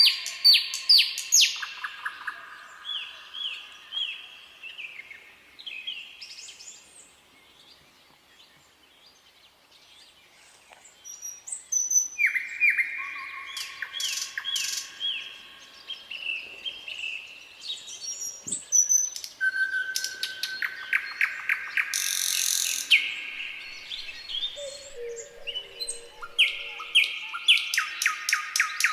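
Nightingale singing: phrases of rapidly repeated notes and trills, broken by a few seconds of quiet about a third of the way in before the song resumes.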